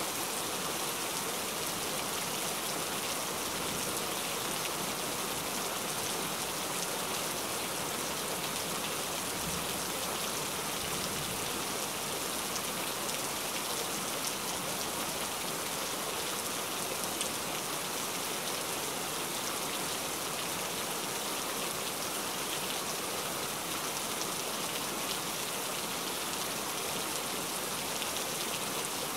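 Heavy rain falling steadily, an even hiss of drops that stays constant throughout.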